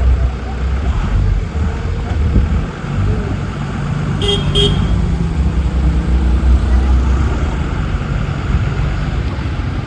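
JCB 3DX backhoe loader's diesel engine running with a steady low rumble. Two short horn toots come about four seconds in.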